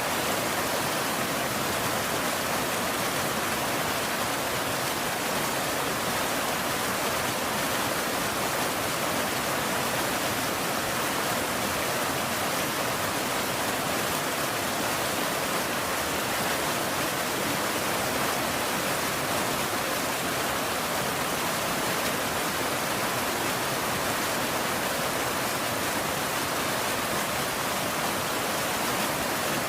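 Steady rain, a dense, even hiss with no single drops or thunder standing out.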